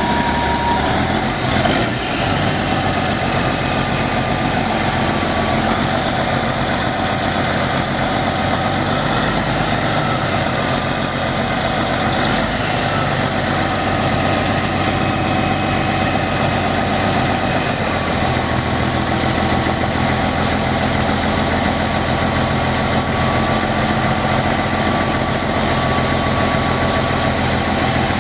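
A vehicle engine idling steadily, its pitch shifting slightly a couple of times.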